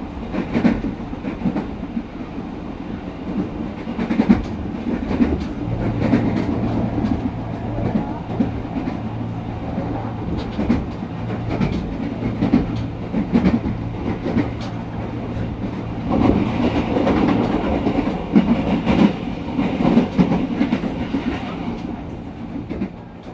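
A train running on the rails, its wheels clattering over rail joints in repeated knocks. A steady low hum comes in about a quarter of the way through and stops about three quarters through.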